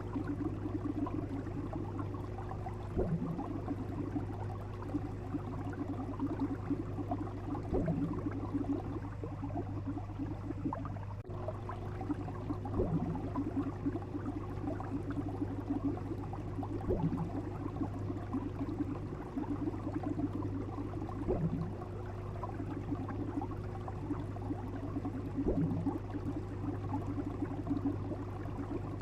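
Fish sound effect: steady bubbling water over a constant low hum, with a short rising chirp repeating about every four to five seconds.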